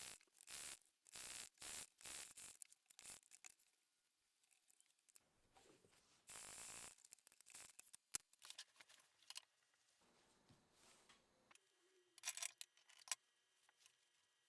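Scissors cutting through fabric in a quick run of short rasping snips, about two a second, then a few scattered snips and clicks.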